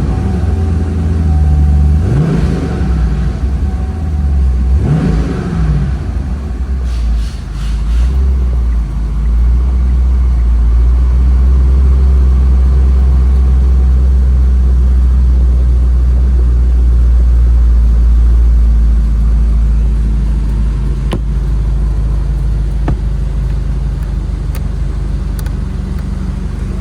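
2015 Camaro's 6.2-litre V8 running just after start-up: revved briefly twice in the first few seconds, then settling into a steady idle.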